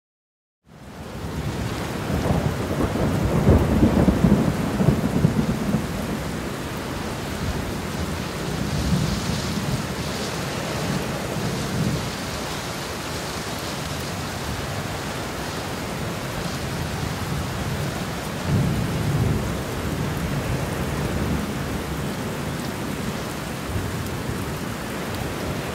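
Thunderstorm: steady rain with low rolls of thunder, the loudest a few seconds in and another about two-thirds of the way through.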